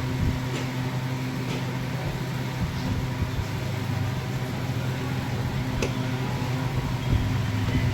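Steady hum of an electric machine motor running, with a few faint light clicks over it.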